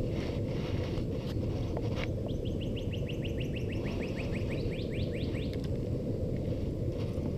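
A songbird singing a trill of quick rising whistled notes for about three and a half seconds, starting about two seconds in, over a steady low rumble.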